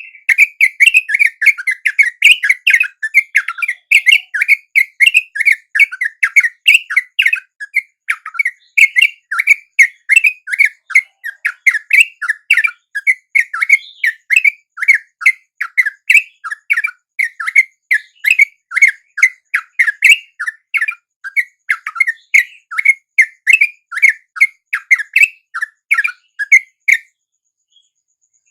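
Sooty-headed bulbul calls used as a lure (pikat trucuk) to draw wild bulbuls: an unbroken chattering run of short, sharp notes, about three a second. The run stops briefly near the end and then starts again.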